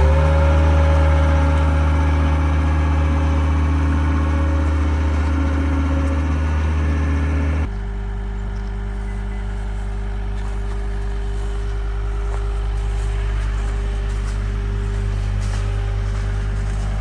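An engine running steadily. About eight seconds in, its sound drops abruptly to a lower, quieter steady note.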